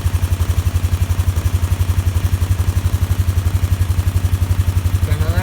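Polaris Sportsman 450 ATV's single-cylinder four-stroke engine idling with a steady, even pulse, just after a cold start.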